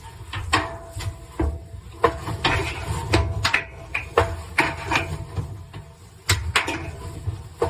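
About a dozen sharp, irregular knocks mixed with rubbing and scraping, from a cleaning tool being worked in and around a dryer vent.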